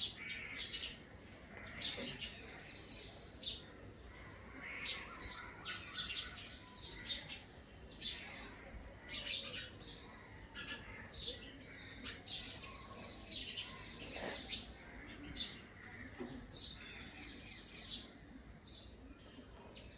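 A small bird chirping over and over in short, irregular calls.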